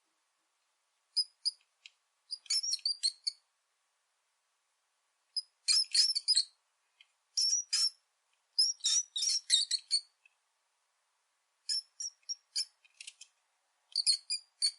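Rat squeaking: clusters of short, high-pitched squeaks, about seven bursts with silent gaps between them.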